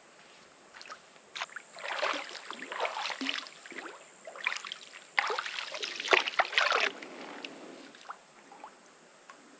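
Water splashing as a person wades and swims in a river: irregular splashes and sloshes, heaviest about five to seven seconds in.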